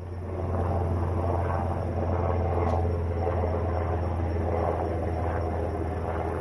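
An engine running steadily with a low, even hum, coming up in level just at the start.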